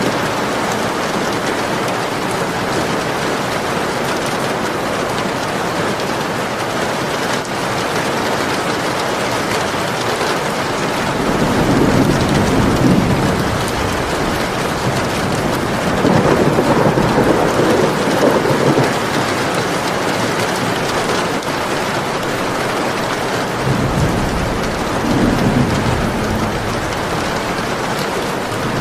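Steady rain falling, with three low rolls of thunder rumbling through it, the first about eleven seconds in and the last near the end.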